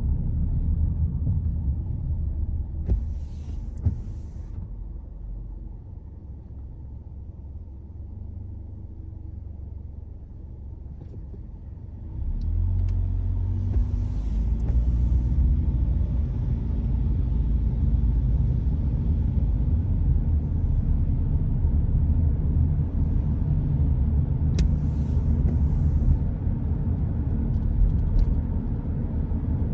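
Car driving, heard as a steady low road and engine rumble. It drops to a quieter level a few seconds in and grows louder again about twelve seconds in. Three short high hisses come through it.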